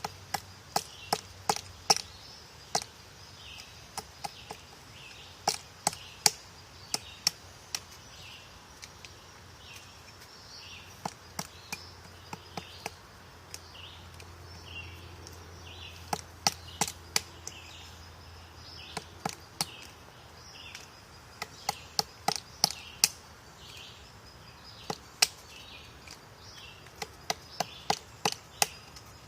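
Woodpecker pecking at wood: sharp single taps and short clusters of taps at irregular intervals, not a rapid drumming roll.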